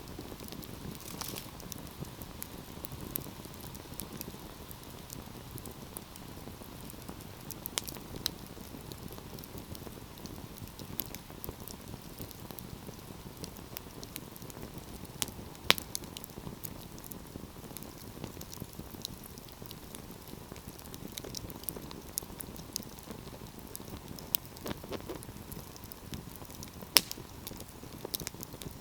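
Wood fire burning with a steady low hiss and irregular crackles and sharp pops, two louder pops about halfway through and near the end.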